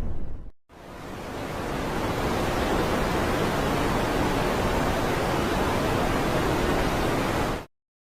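Space-sound recording of a dwarf-planet system: a steady, even rushing noise like hiss, fading in over about two seconds and cutting off abruptly near the end. A deeper rumbling noise stops about half a second in, just before it.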